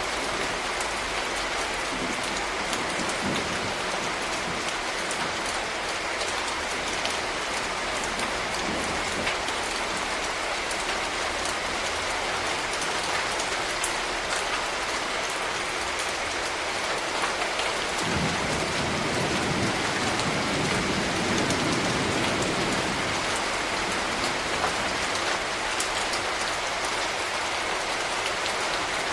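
Steady rain falling on a street, with a dense patter of individual drops on hard surfaces. A low rumble swells up about two-thirds of the way through and fades a few seconds later.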